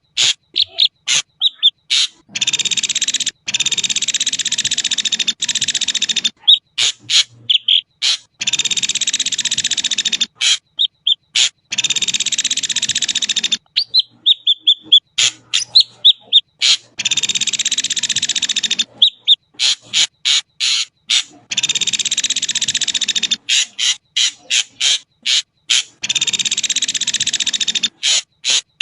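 Ashy drongo calling: a string of harsh, hissing calls of a second or two each, broken up by quick sharp notes and short clear whistles.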